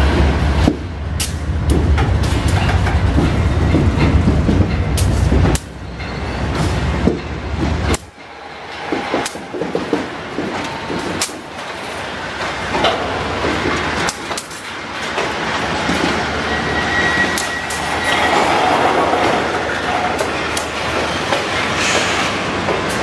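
Diesel-electric freight locomotives rumbling heavily past. About a third of the way in the engine sound drops away, and empty hopper wagons roll by with sharp clacks from the wheels over the rail joints and a brief faint wheel squeal.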